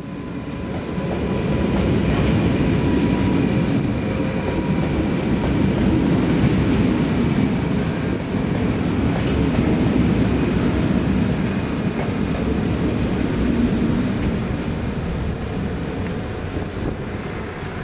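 Train running on the station tracks: a steady rumble of wheels on rail, with a faint thin whine that fades out about halfway through.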